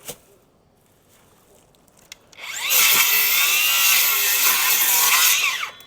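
Hand saw cutting through dead wood: after a quiet start with a light click, one long loud stretch of sawing starts about two and a half seconds in and stops just before the end.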